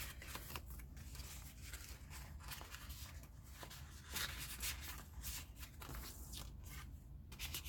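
Faint rustling and crinkling of paper journal pages and inserts being handled and turned, a string of short scattered swishes over a steady low hum.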